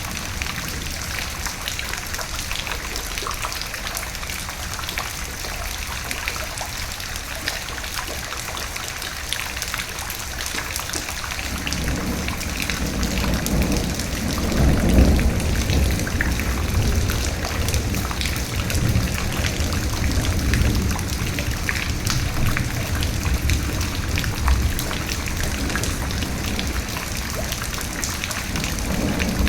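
Steady rain falling, with a low rumble of thunder coming in about a third of the way through, loudest around the middle and rumbling on afterwards.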